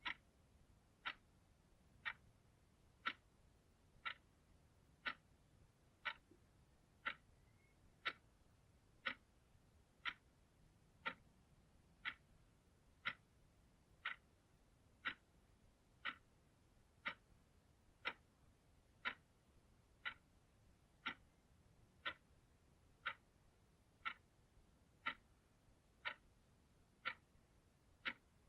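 Clock ticking steadily, one short sharp tick each second.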